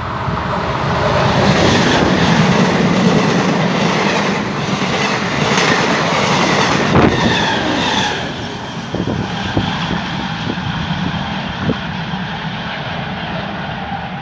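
Diesel passenger train passing close by on the line. The noise builds over the first couple of seconds, then the carriages rattle past with a rhythmic clickety-clack of wheels over the rail joints and a brief squeal of wheels. After that it fades as the train moves away, with a few sharp clacks.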